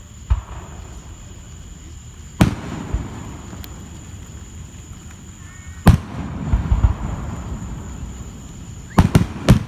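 Aerial fireworks going off: a series of sharp bangs a few seconds apart, the loudest about six seconds in, with a close pair near the end, each followed by a rumbling crackle.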